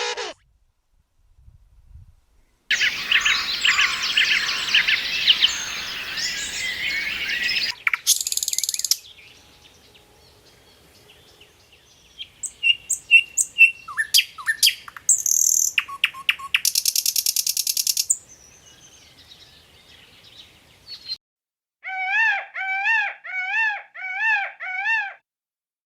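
Birds chirping and calling in several short, separate recordings: first a dense chorus of chirps, then scattered chirps and trills, then five arched, repeated calls near the end.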